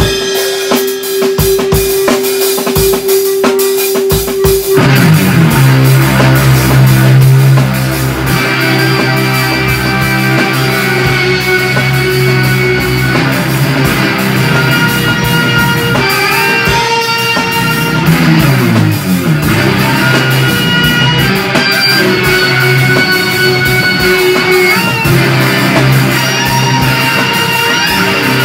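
Electric guitar and drum kit playing a loud, loose rock jam. For the first five seconds a held guitar note rings over drum hits; then the guitar drops to a sustained low note with riffs over it, and the pitch slides up and down about two-thirds of the way through.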